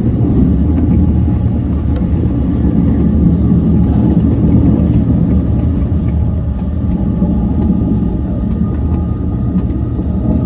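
E235-1000 series electric train running: a steady low rumble of wheels on rail with a faint steady whine, heard from inside the train.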